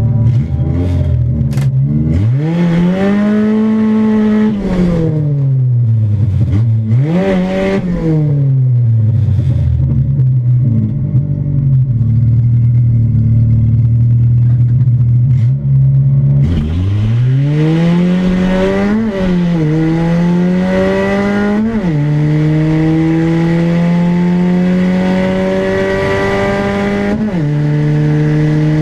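1979 Honda Civic's engine heard from inside the cabin: revved up twice and falling back, then running steadily on the start line. About sixteen seconds in it launches at full throttle, the pitch climbing through the gears with three upshifts, each a sudden drop in pitch.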